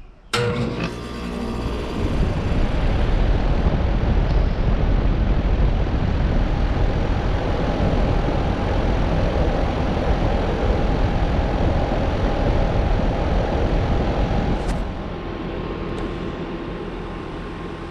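A 2-ton Trane XB13 central air-conditioner condensing unit starting up: a sharp click, then its Alliance scroll compressor and Gen-Tech condenser fan motor come on abruptly and run with a loud, steady rush. About 15 seconds in the sound drops to a quieter steady hum as the unit keeps running.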